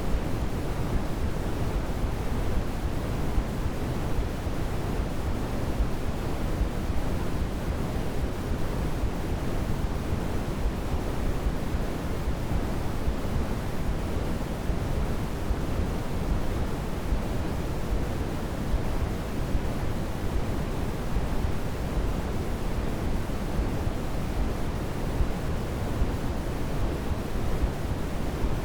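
Steady synthetic noise of the white-noise sleep-aid kind, weighted toward the low end like pink noise, with no change or events.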